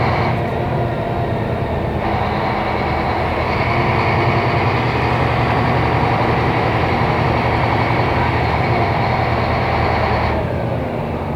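Scania K270IB city bus with ZF automatic gearbox running steadily under way, a continuous engine drone. About ten seconds in, the higher part of the sound drops away and the drone eases.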